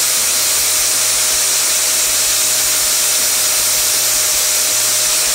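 Electric grinder running steadily as it grinds excess solder off a soldered washing-machine timer contact: a loud, even hiss with a constant whine.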